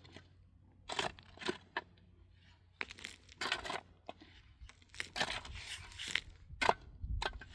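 A hand tool digging and scraping into packed earth or rock, about a dozen uneven crunching strokes with short pauses between them.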